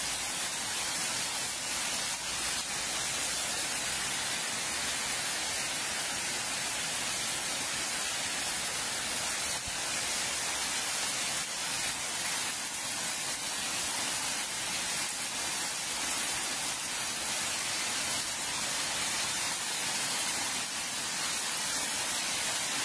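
Heavy tropical rain falling steadily, a dense, even hiss with no breaks.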